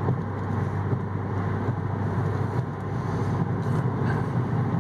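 Steady road and engine noise inside the cabin of a 2014 Cadillac ATS with the V6, driving along at an even speed. A low, even hum sits under tyre rumble.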